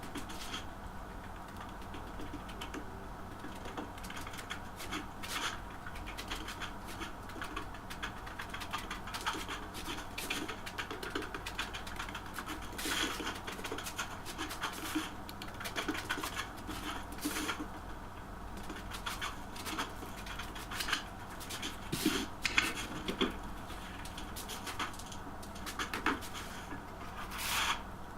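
Irregular light clicks, taps and scraping, like hand work with tools and hard material, over a low steady hum.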